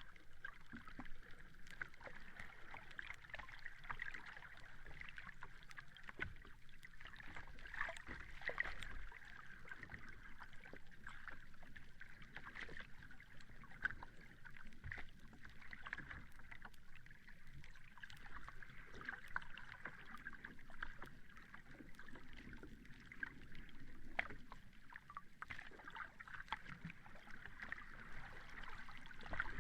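Sea water washing at the shore: a steady wash of small waves with many little ticks and splashes throughout.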